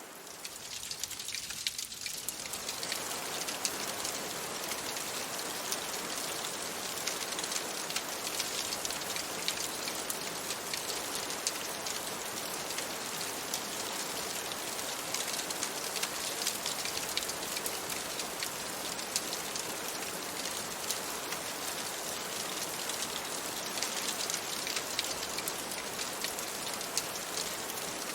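Steady rain on a window and surface: an even hiss dotted with many small drop ticks. It swells up over the first few seconds, then holds level.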